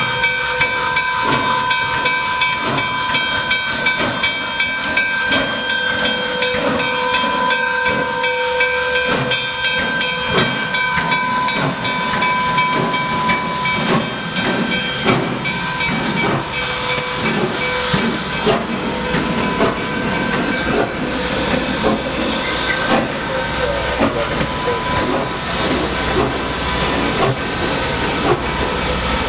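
Nickel Plate Road 765 Berkshire steam locomotive hissing steam steadily and loudly, with a steady ringing tone in the hiss.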